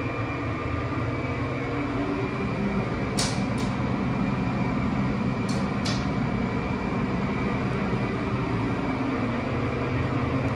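Steady mechanical hum and rumble inside a geared traction incline elevator car that is standing still with its doors closed, broken by a few short hissing clicks about three and six seconds in.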